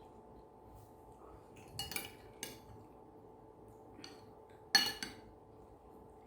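Metal spoon or fork clinking against a plate while eating: a few sharp, ringing clinks, the loudest about three-quarters of the way through.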